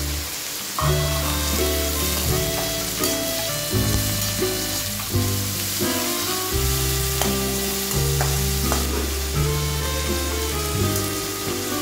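Onions, tomatoes and curry leaves sizzling in oil in a metal kadai, with a few spatula scrapes and taps as they are stirred. Background music with a steady bass line plays throughout.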